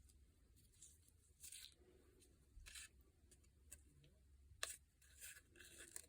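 Faint, scattered rustles and light taps of paper being handled and slid around on a tabletop.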